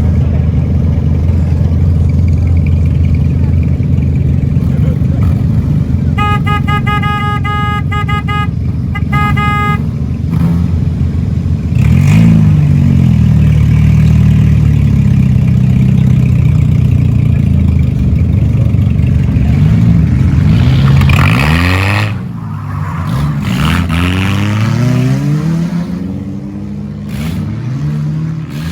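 Race car engines running and revving at a speedway, rising and falling in pitch as cars accelerate and pass, loudest around twelve and twenty-one seconds in. A horn sounds between about six and nine seconds in, a longer blast followed by a short one.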